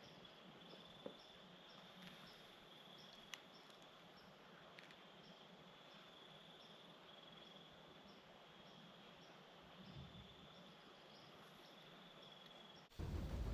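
Faint insects in the woods: a steady high trill with a regular higher chirp a little more than once a second, and a couple of faint clicks. Music starts suddenly near the end.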